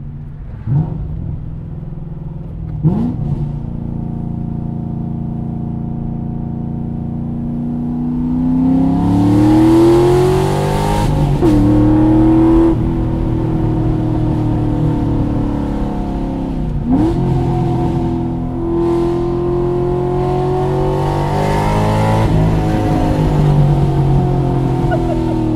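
2013 Corvette C6 Grand Sport's 6.2 L LS3 V8, breathing through long-tube headers and a straight-piped exhaust, pulling hard through the gears of a manual gearbox. The engine note climbs, dips sharply at each upshift (twice in the middle) and then holds and rises again.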